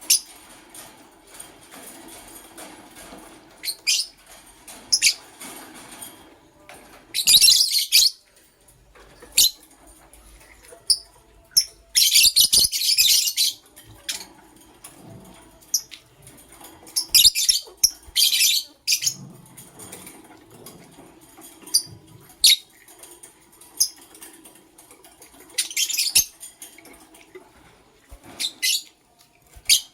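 Pet lovebirds giving short, shrill chirps and dense bursts of high-pitched chattering at irregular intervals, with the longest burst lasting over a second.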